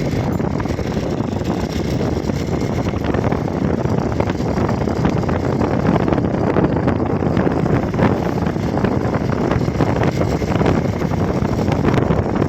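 Wind buffeting the microphone while riding a Hero XPulse motorcycle, with the bike's single-cylinder engine running underneath. The noise is loud and steady throughout.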